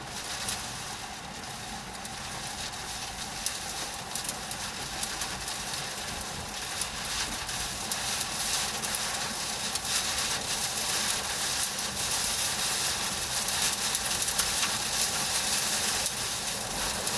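Rushing storm wind and rain near a tornado, a steady hiss that slowly grows louder, with many scattered sharp ticks.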